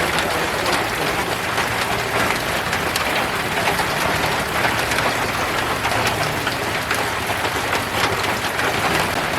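Steady, heavy rain falling, with many separate drop hits on surfaces.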